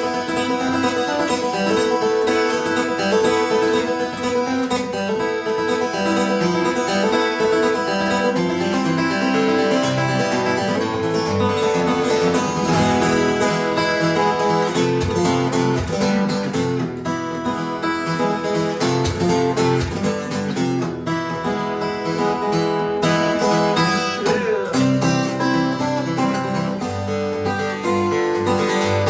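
Acoustic guitar played live, picking a folk melody over a steady bass line in an instrumental passage without singing.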